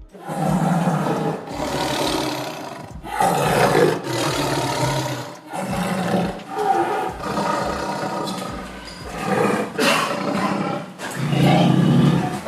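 A large animal roaring over and over, a string of loud calls each lasting a second or two with brief breaks between them.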